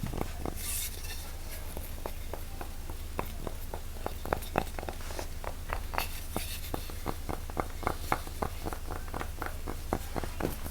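Quick, irregular taps and clicks, a few a second at first and coming thicker and faster in the second half, over a steady low hum.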